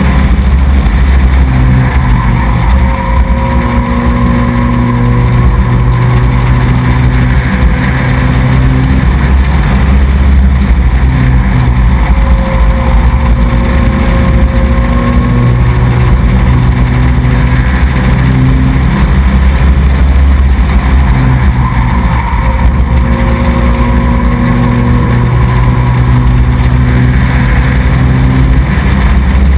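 Race truck engine running hard and continuously, heard up close, its pitch easing and picking up again every several seconds as it laps the track.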